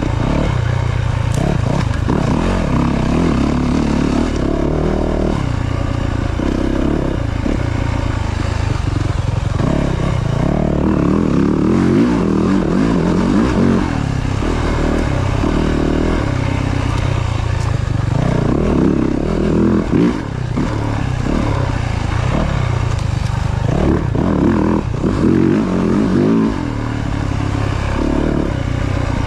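Yamaha YZ450F dirt bike's single-cylinder four-stroke engine revving up and down under constant throttle changes as it is ridden through ruts and turns on a motocross track. The engine dips briefly a couple of times when the throttle is shut.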